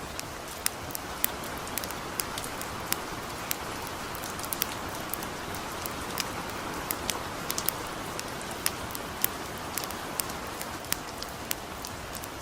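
Gentle rain falling, a steady hiss, with a campfire crackling over it in sharp, irregular pops a few times a second.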